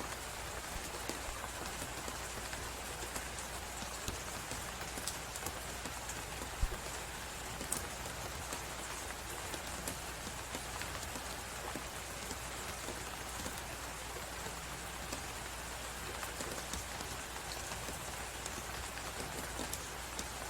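A wood fire crackling, its scattered small pops over a steady hiss of storm wind, with one sharper pop about six and a half seconds in.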